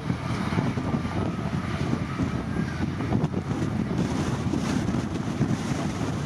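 Heavy earthmoving machine's diesel engine running steadily as a rough low rumble, with wind buffeting the microphone.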